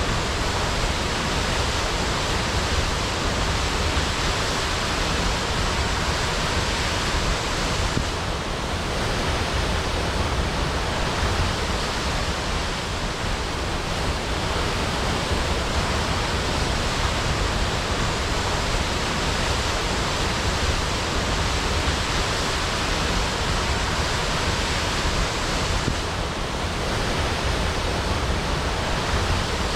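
Waterfall crashing: a steady, loud rush of falling water with a deep low rumble beneath it.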